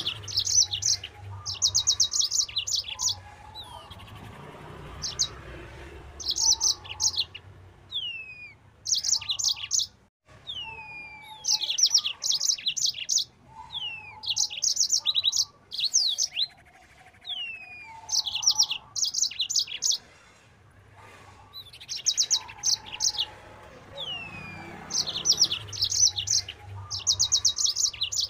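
Yellow-fronted canary (the "mozambik") singing in loud, fast repeated phrases: each starts with a short downward-sliding whistle and breaks into rapid rattling trills of high notes, about every two to three seconds.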